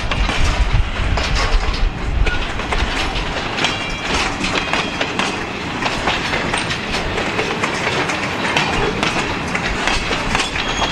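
Empty freight flatcars rolling past, their wheels clicking steadily over the rail joints in a continuous clickety-clack. A heavier low rumble runs through the first couple of seconds, and a faint high wheel squeal sounds briefly about four seconds in.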